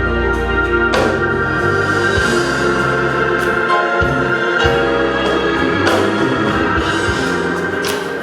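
Organ music playing sustained chords over a moving bass line, with a few sharp struck accents.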